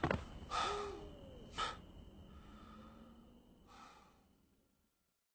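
A man breathing out in a few heavy sighs, about a second apart, after a sharp click at the start; the breaths fade away and the sound drops out before the end.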